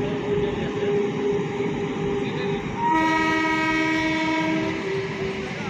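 Indian Railways train running past with a steady rumble, its horn sounding one blast of about two seconds about three seconds in.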